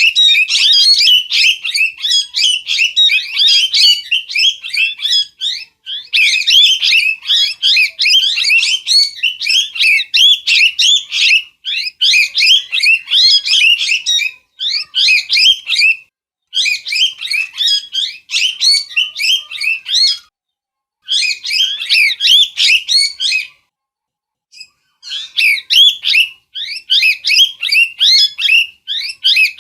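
Parrot calling in rapid high chirps, several a second, in bouts broken by short pauses.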